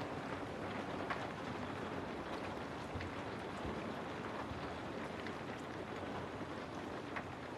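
Steady rain falling, with scattered single drops striking close by as brief clicks and taps.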